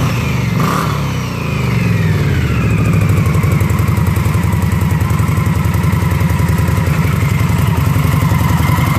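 Indian Scout V-twin motorcycle engine running: a rev falls back in the first couple of seconds, then it idles steadily.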